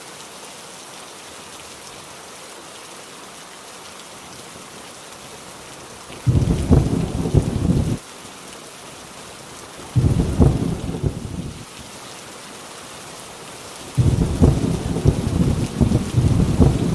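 Heavy rain hissing steadily on a tin roof, with deep rolls of thunder three times: about six seconds in, around ten seconds, and again from fourteen seconds on, each starting and stopping abruptly.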